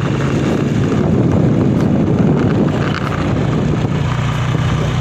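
Motorcycle engine running at a steady speed under road and wind rumble.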